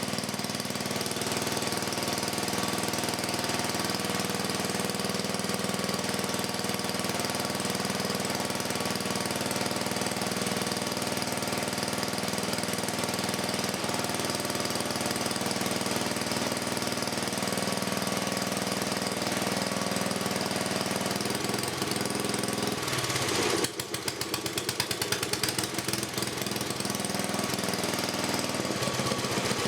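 Freshly rebuilt 1984 10 HP Briggs and Stratton vertical-shaft single-cylinder engine running on its first test run after new rings, gaskets and reseated valves. It runs steadily, then about 23 seconds in its sound changes to a rapid, uneven pulsing beat.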